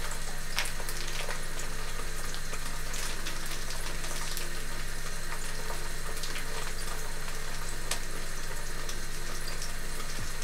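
Sliced peppers and ginger frying in a pan: a steady sizzle with scattered sharp pops, over a steady low hum.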